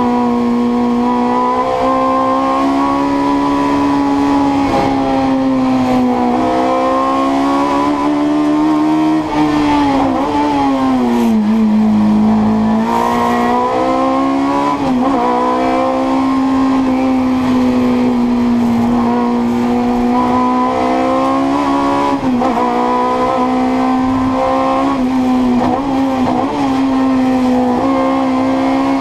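Fiat 128 Coupé's four-cylinder racing engine, heard from inside the cabin, held at high revs under hard acceleration. Its pitch dips and climbs back several times with gear changes and corners, most deeply about ten to twelve seconds in.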